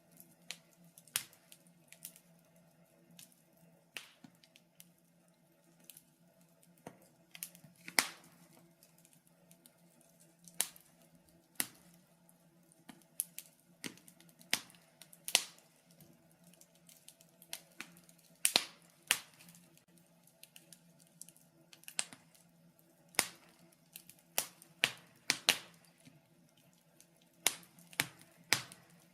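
Wood fire crackling in a fireplace: irregular sharp pops and snaps, roughly one or two a second and some in quick clusters, over a faint steady low hum.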